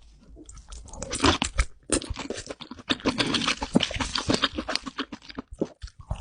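Dense crunching and crackling of king crab being cracked and eaten. It starts about a second in and thins out near the end.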